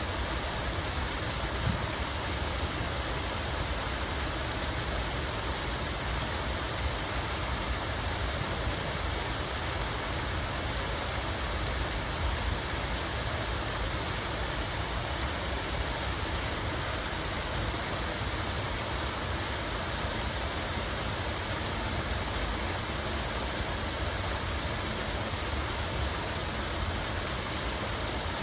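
Water running steadily with a constant, even rush and a deep low rumble underneath.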